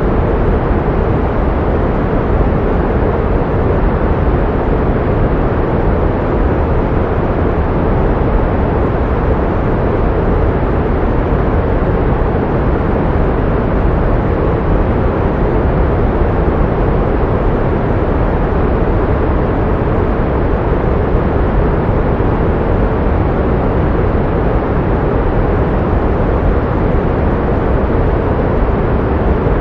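Steady pink noise: an even, unchanging hiss, fuller in the lows and softer in the highs.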